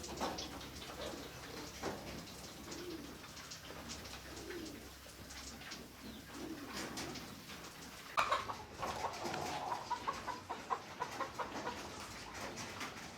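Doves cooing: a few soft, low coos. From about eight seconds in, a quick run of sharp clicks and taps comes in alongside.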